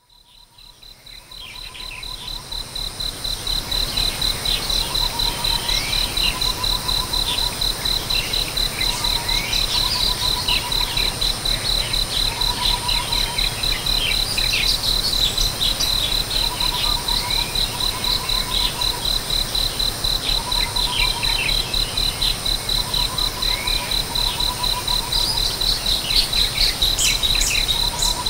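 An insect trilling steadily on one high pitch, with short bird chirps and calls scattered over it and a short, lower trill coming back every two seconds or so. It fades in over the first few seconds.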